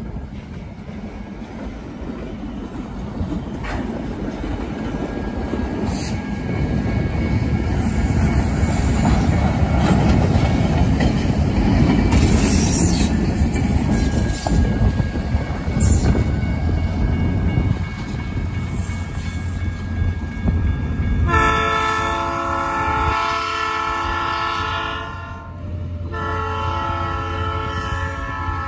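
Empty steel train of flatcars hauled by EMD GP38 diesel locomotives rolling past at close range: engine rumble and wheels clattering over rail joints, loudest about halfway through. About 21 seconds in a locomotive air horn sounds a long chord, breaks off briefly, and sounds again to the end.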